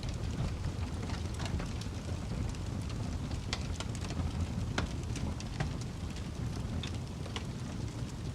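Wood fire crackling: a steady low rumble with irregular sharp pops and snaps, a few each second.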